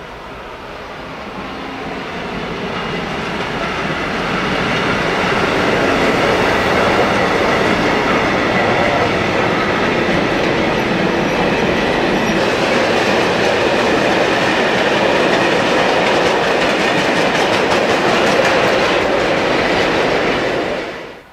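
Freight train of covered sliding-wall wagons and stake wagons rolling past close by, growing louder over the first few seconds and then steady, the wheels clattering over rail joints and points. The sound cuts off suddenly near the end.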